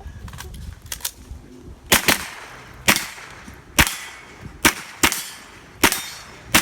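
A string of rifle shots from a .22 rimfire Mini-Rifle fired at a practical shooting stage: about eight sharp cracks, roughly one a second, with a quick pair about two seconds in. A few fainter cracks come before them.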